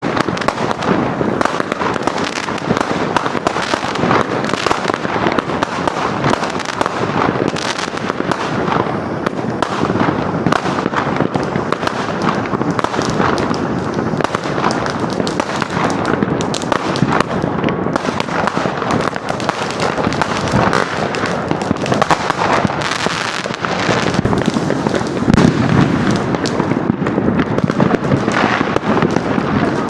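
Massed fireworks and firecrackers going off, a dense, unbroken crackle of overlapping bangs and pops with no pause, swelling a little more than two thirds of the way through.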